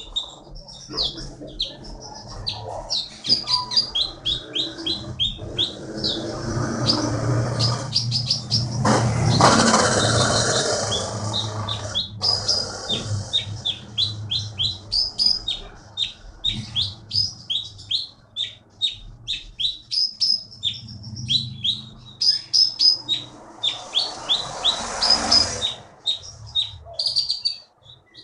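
A konin songbird singing in full voice: a fast, steady run of sharp, high chirps repeated several times a second. A rustling noise rises around the middle and again near the end.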